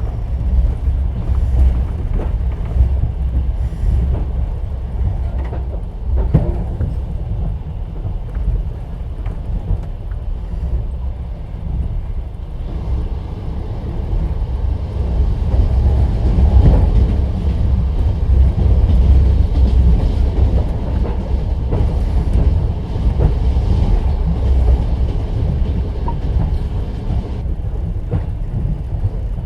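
Passenger train wheels running on the rails, heard from inside a platskart sleeper carriage: a steady low rumble with the odd faint knock of wheels over rail joints.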